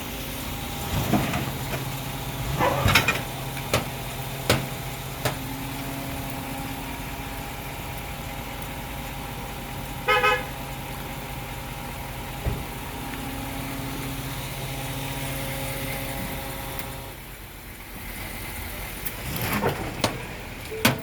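Motor vehicle engine running steadily, with a short car-horn honk about halfway through and several sharp knocks, mostly in the first few seconds.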